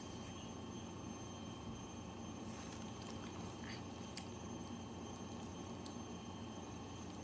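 Faint eating sounds: a few small clicks and soft rustles of crab and seafood being handled and chewed, over a steady low background hum.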